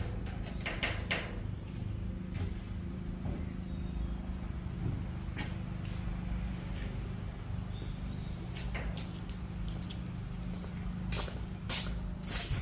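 Scattered clicks and knocks from things being handled during car cleaning, over a steady low hum.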